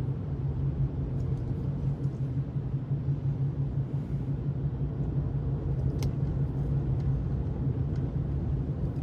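Steady low rumble of a car driving on a slushy, snow-covered road, heard from inside the cabin, with a single faint click about six seconds in.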